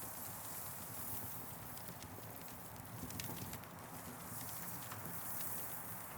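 Campfire crackling: irregular small pops and snaps over a steady hiss.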